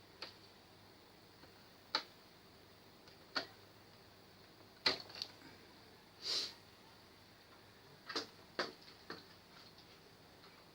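Scattered sharp clicks and light taps of small hard objects being handled, about eight over the span, with a short scraping hiss about six seconds in.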